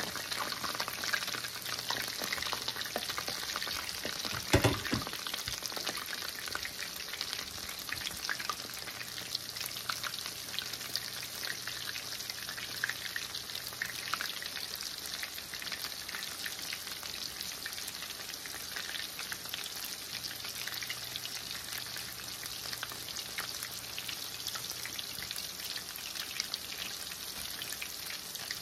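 Battered chicken strips deep-frying in hot oil in a stainless steel pan, a steady sizzle with constant small crackles. A single loud knock sounds about four and a half seconds in.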